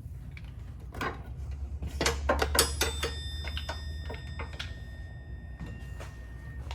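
Metal knocks and clinks as a Can-Am Spyder's stock anti-sway bar is worked loose and slid out of the frame, with one knock about a second in and a cluster from about two to three seconds in. A steady low hum runs underneath.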